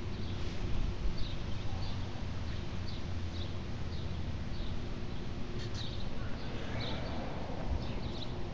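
A small bird chirping over and over, short high chirps about once or twice a second, over a steady low outdoor rumble.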